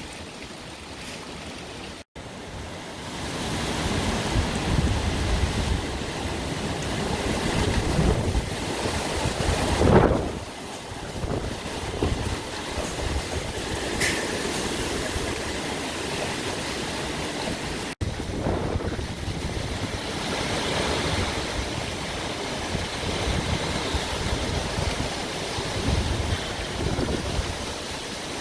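Tropical storm weather: gusting wind buffeting the microphone with a continuous rushing roar, and a stronger gust about ten seconds in. The sound changes abruptly twice, about two seconds in and again past the middle.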